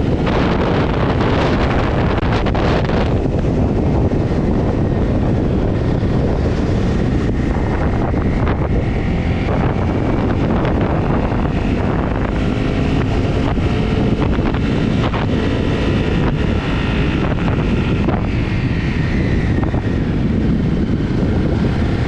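Riding a Honda CRF250 single-cylinder four-stroke motorcycle: wind buffets the onboard microphone over the steady engine running underneath. A faint higher whine comes through in the middle stretch.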